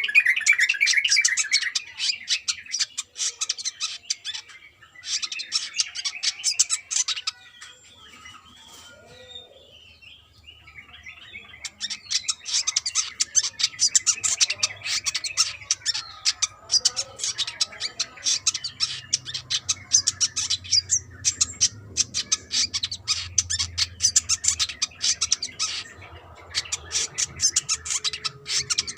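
Brown-throated sunbird singing: long runs of rapid, high chattering trills, broken by a few seconds of quieter calling about a quarter of the way through. A faint low hum sits beneath the song in the second half.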